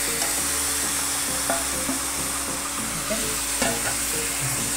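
Marinated chicken sizzling as it is tipped into a hot non-stick kadai, with a steel spoon scraping it out of the bowl and clinking against the pan a few times.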